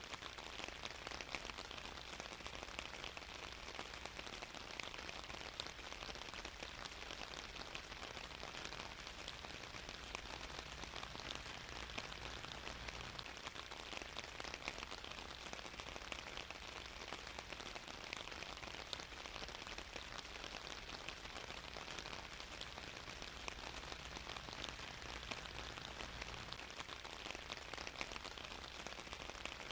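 Steady rain falling and pattering on a surface, with many fine drop ticks over an even hiss and a low rumble underneath.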